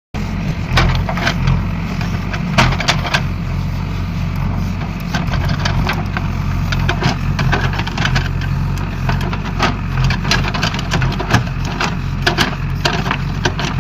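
A heavy engine running steadily, with many sharp clicks and knocks rattling over it.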